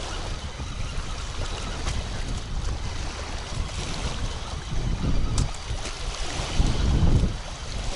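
Wind buffeting the microphone in gusts, with a low rumble that swells twice in the second half, and a couple of short clicks from handling.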